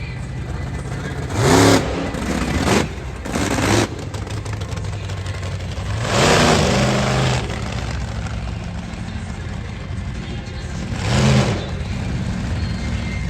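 Monster truck engine revving in short bursts over a steady low rumble: five sharp rev-ups, the longest and loudest about six seconds in.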